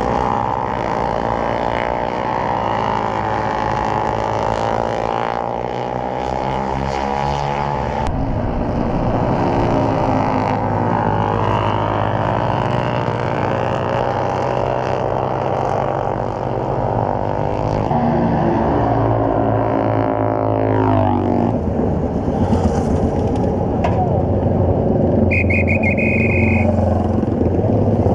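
Motorcycle engine running under way, its pitch rising and falling with the throttle and gear changes. A short high steady beep sounds about 25 seconds in.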